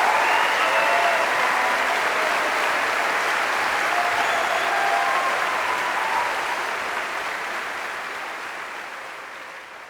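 Audience applauding after an orchestra's performance, a dense even clapping that fades out over the last few seconds.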